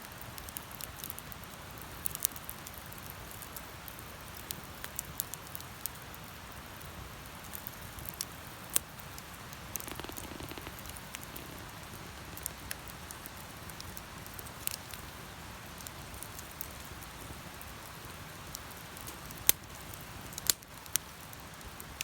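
Bonfire burning: a steady hiss with scattered crackles and sharp pops, the loudest pops about 8 seconds in and twice near the end.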